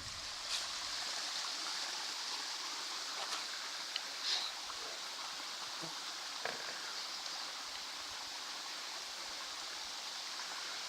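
Steady hiss of flowing or moving water, with a few faint knocks.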